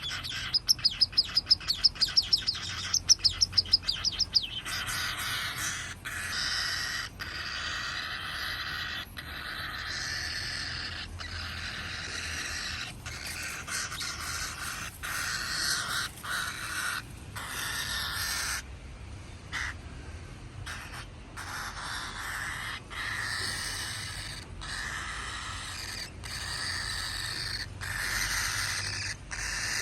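Baby cockatiel begging for food: rapid high chirps for the first few seconds, then a continuous raspy, hissing begging call broken by brief pauses.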